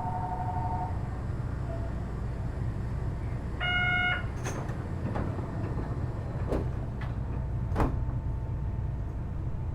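Door-closing sequence aboard a Kitakyushu Monorail Series 1000 car at the platform. A two-tone warning chime stops about a second in. A short buzzer-like tone sounds near the middle. Then come several sharp clunks as the sliding doors shut. A steady low hum from the car runs underneath.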